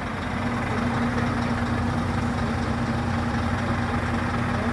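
Scania truck's diesel engine running steadily at low revs, with a constant hum.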